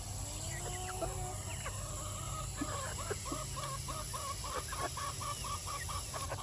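Chickens clucking in a quick, even run of short calls, a few a second, after one or two longer rising calls in the first second or so.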